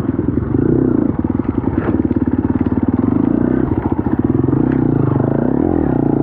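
Dirt bike engine running hard on a trail, its revs rising and falling again and again as the throttle is worked, with a couple of knocks from the bike over rough ground.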